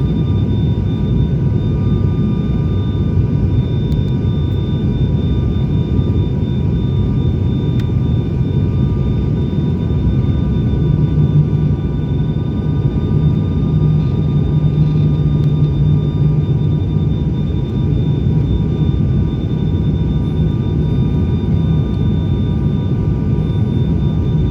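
ATR 72-600 turboprop engines and propellers droning steadily, with several thin steady tones riding over a deep, dense hum. About halfway through the low hum strengthens for several seconds, then settles again.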